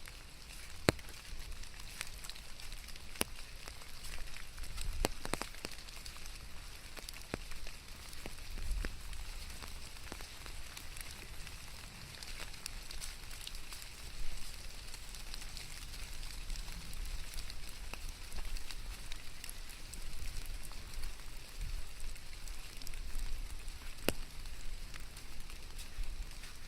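Rain falling as a steady hiss, with scattered sharp ticks of single drops striking close by.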